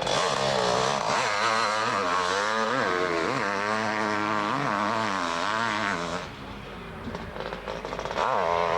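Motocross motorcycle engines revving, their pitch rising and falling over and over. The sound drops away about six seconds in and picks up again near the end.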